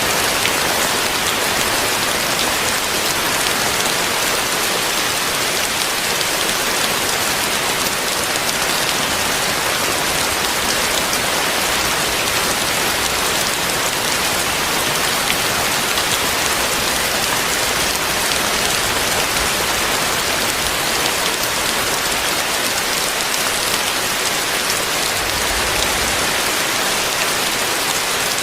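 Heavy rain falling steadily, a dense even hiss of drops on surfaces. A faint low rumble comes through near the end.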